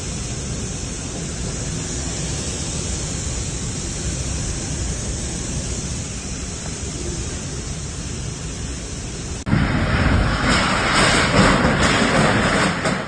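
Strong gale-force wind blowing as a steady rushing noise. About nine and a half seconds in, it switches abruptly to a louder, harsher rush that lasts almost to the end.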